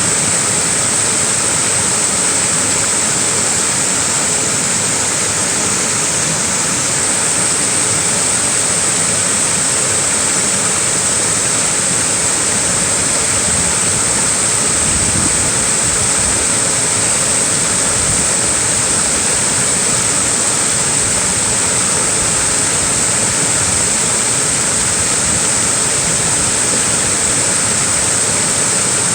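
Small waterfall: falling water rushing and hissing steadily, without a break.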